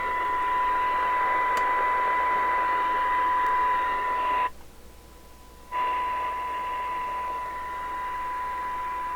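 Steady high test tone with hiss coming from the Cobra 29 LTD Classic CB radio's speaker as its receiver is peaked. The tone and hiss cut out for a little over a second about halfway through, then come back.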